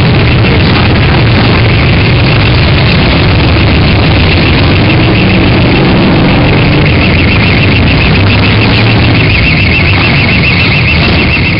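Many motorcycle engines running together in a loud, steady mass of exhaust rumble as a procession of bikes passes, with a steady high tone riding over it.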